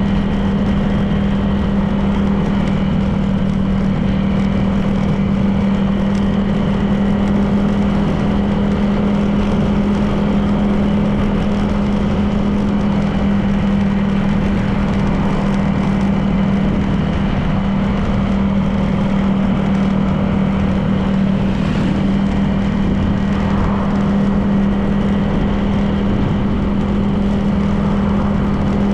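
Honda PCX 160 scooter's single-cylinder engine running at a steady, unchanging pitch while cruising, over steady road noise.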